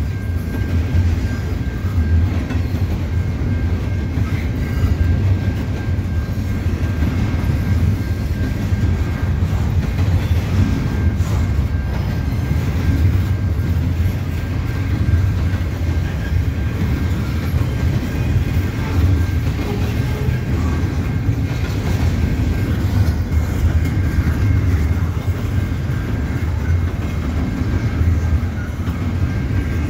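Double-stack intermodal freight cars rolling slowly past a level crossing: a steady low rumble with the clickety-clack of wheels over rail joints and a few sharp knocks. A faint steady high-pitched tone sits over it.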